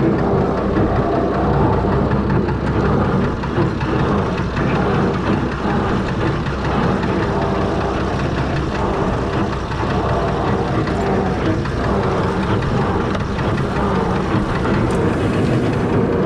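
Fordson Major tractor's six-cylinder Perkins diesel running steadily under load, driving a grass slasher through the PTO at slow speed.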